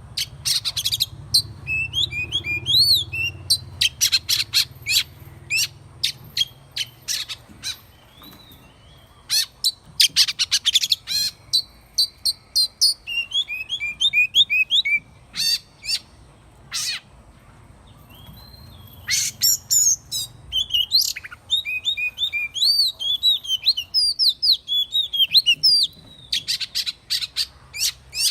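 Oriental magpie-robin singing a varied song of quick whistled notes and sharp, clicking strokes, delivered in phrases with short pauses between them.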